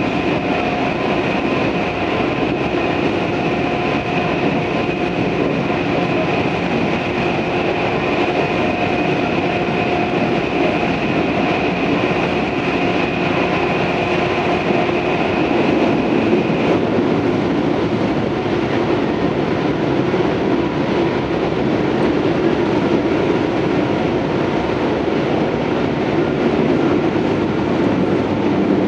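Onboard running sound of a Tobu 634 series electric train at speed: steady wheel-on-rail rumble and motor noise. A steady high whine runs through the first part and cuts off suddenly about 17 seconds in, leaving the rumble going on.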